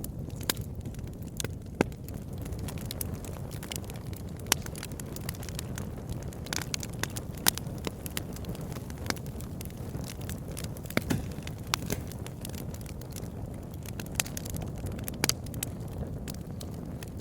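Wood campfire crackling: irregular sharp pops and snaps, a few louder than the rest, over a steady low rumble of burning.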